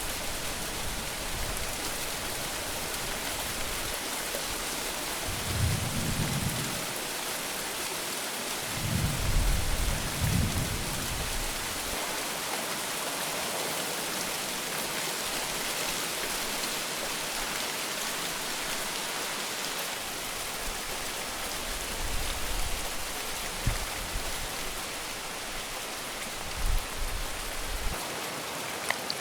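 Heavy rain falling steadily, with low rumbles of thunder about six and ten seconds in and fainter ones near the end.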